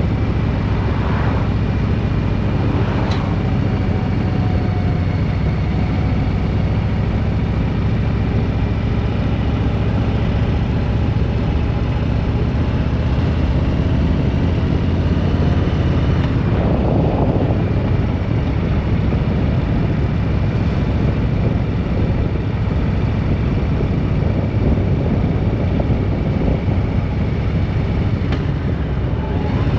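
Steady engine and road noise of a vehicle under way, heard from on board. There are brief swells of rushing noise about a second in, at three seconds and around seventeen seconds.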